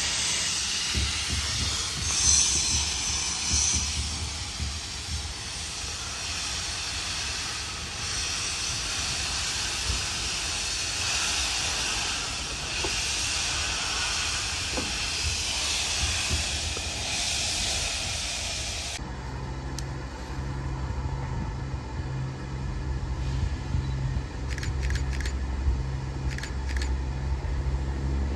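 Steam locomotive hauling the train, heard from a coach window: a steady loud hiss of steam over a low rumble of the wheels on the rails. About nineteen seconds in the sound cuts to a Southern Class 171 Turbostar diesel unit running, with a steady low engine hum.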